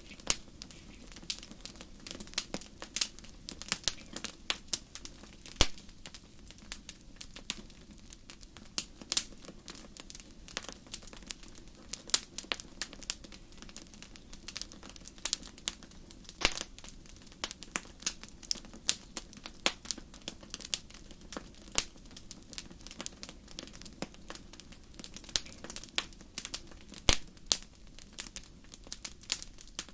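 Campfire crackling: irregular sharp pops and snaps, several a second, over a soft, steady low rush.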